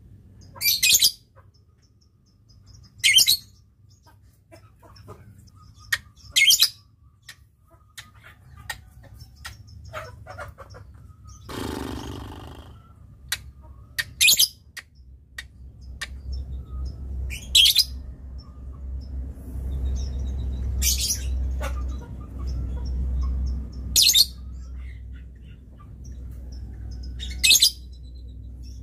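Lovebird giving short, shrill, high-pitched chirps, one roughly every three seconds, eight in all, with faint ticking calls scattered between them. A low rumble runs underneath in the second half.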